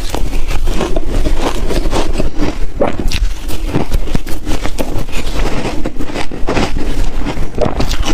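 Ice being bitten and crunched in the mouth, close to the microphone: a dense, irregular run of loud cracks and crunches, with no pause.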